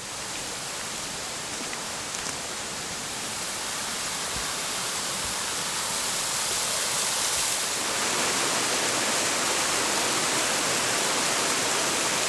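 Steady rush of water from a waterfall or fast mountain stream, growing louder over the first several seconds and then holding level.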